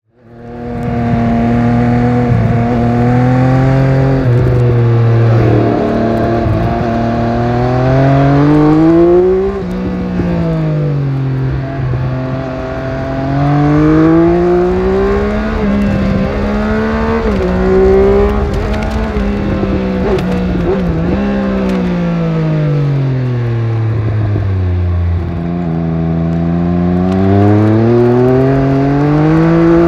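Triumph Speed Triple 1200RS's 1160 cc inline three-cylinder engine under way, its pitch rising and falling several times as the bike accelerates and slows.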